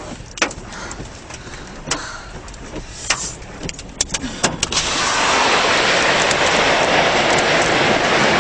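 Scattered clicks and knocks, then about five seconds in a loud, steady rush of wind sets in and holds.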